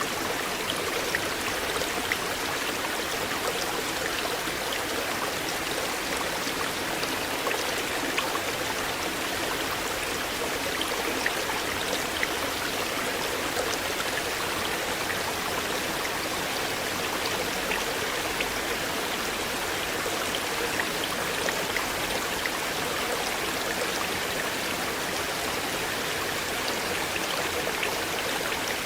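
River water flowing steadily: a constant rushing, with small splashes and drips scattered through it.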